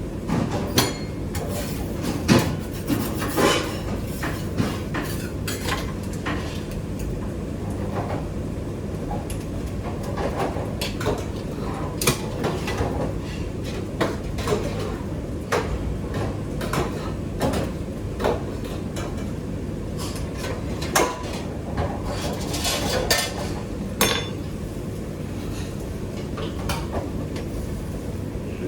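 Kitchen utensils and dishes clattering and knocking, irregular sharp clinks and taps over a steady low hum.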